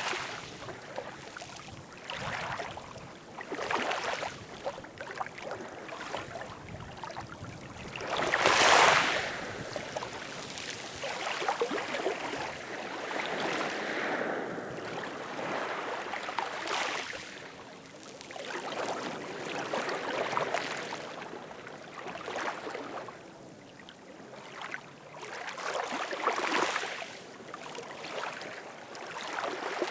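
Ocean waves washing in, each one surging up and falling away every few seconds, the largest about nine seconds in.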